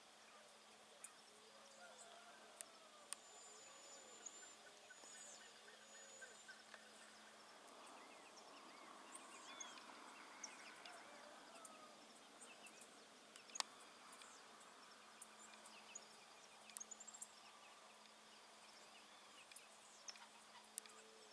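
Faint outdoor birdsong from several birds: low arching calls repeated in the first few seconds, high thin chirps and a short trill, with a few sharp clicks, the loudest about two-thirds of the way through.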